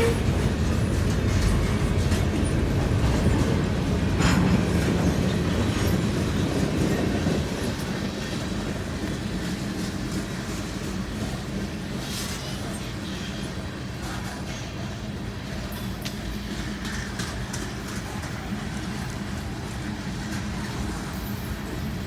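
Freight train cars rolling past: a steady rumble of wheels on rail with scattered clicks. It is louder for the first several seconds, then eases to a lower, steady level.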